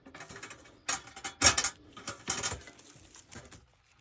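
Metal live-animal cage trap rattling and clicking as its door mechanism is handled, with a few sharper clanks in the first half.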